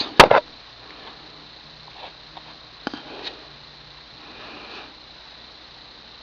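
Two sharp knocks at the very start, then faint nose sniffs and small handling noises.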